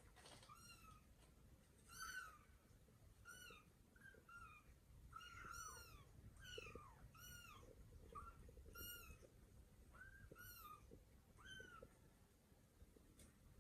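Kitten mewing: a string of short, high-pitched mews, each rising and falling, about one or two a second. The mews are faint.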